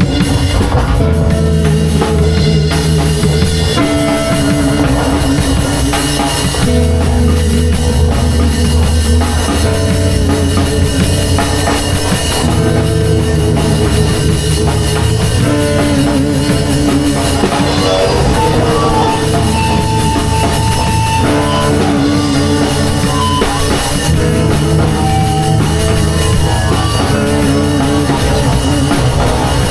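Live band improvising in a rock style: drum kit playing steadily with sustained, shifting guitar and bass notes.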